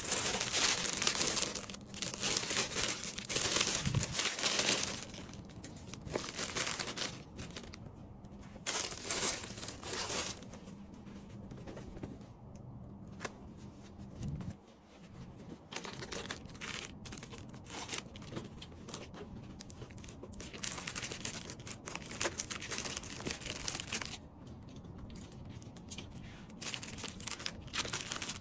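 Packaging being handled: plastic wrapping crinkling and rustling. There are louder stretches in the first five seconds and around nine seconds in, then softer rustles and small clicks.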